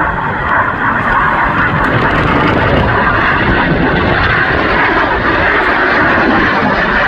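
Loud, steady rushing noise from the turbofan engines of BAE Hawk T1 display jets in flight.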